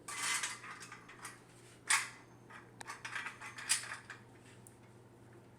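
Parts of a hair steamer's stand being pressed and fitted together by hand. A scraping rustle comes at the start, a sharp click about two seconds in, and a few lighter clicks and knocks a second or so later.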